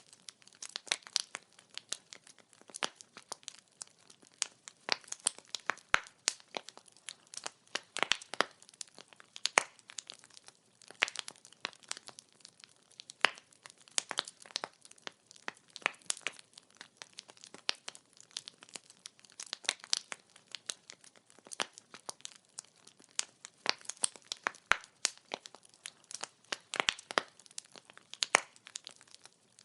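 Wood fire burning, its logs crackling and popping in quick, irregular snaps over a faint hiss.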